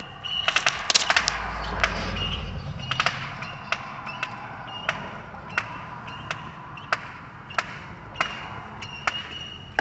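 A quick run of sharp crackling pops from fireworks about half a second to a second and a half in, with a low rumble just after. Then single sharp ticks at a very even pace, about three every two seconds, with a thin high tone coming and going.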